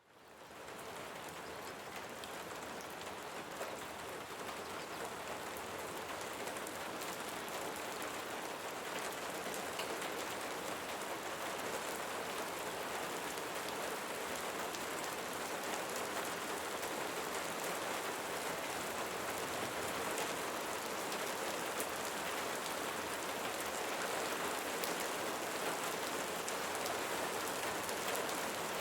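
Steady rainfall that fades in from silence at the start, with scattered sharper drop ticks over an even hiss.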